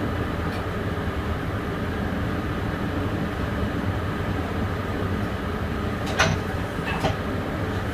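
Passenger train running, heard from the driver's cab: a steady rumble of wheels and running gear, with two sharp knocks about six and seven seconds in.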